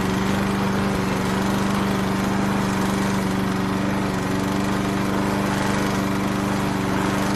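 A small motor running steadily at one pitch, a continuous buzzing drone that does not change.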